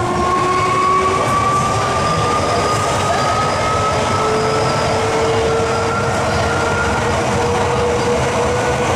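MTR M-Train electric multiple unit under way. Its traction motors whine in tones that rise slowly as the train gathers speed, over a steady rumble of wheels on the track.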